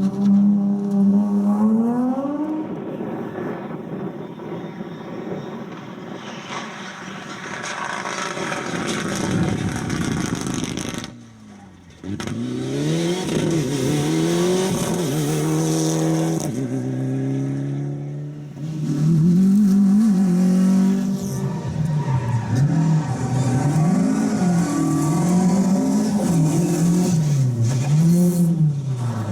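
Rally car engines at full racing effort: a car accelerates and changes up through the gears as it passes. Then, after a cut, another car's engine note climbs in steps through the gears and then rises and falls repeatedly, about once a second, as the driver lifts off and gets back on the throttle.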